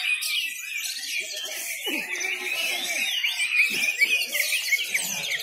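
A chorus of caged songbirds singing at once, among them orange-headed thrushes, in a dense run of overlapping chirps, whistles and trills. People's voices sound faintly underneath.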